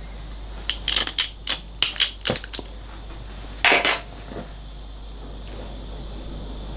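Gas brazing torch with a freshly cleaned tip: a run of light metallic clicks and clinks as it is handled, a short loud burst of noise about three and a half seconds in, then a steady gas hiss.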